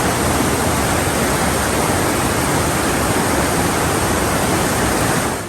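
Loud, steady rush of a waterfall's falling water, an even hiss-like roar with no breaks.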